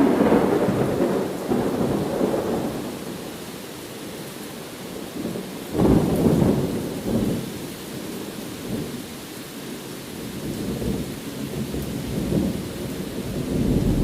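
Rain falling with thunder. A rumble dies away at the start, a sudden thunderclap about six seconds in rolls off slowly over several seconds, and another rumble builds near the end.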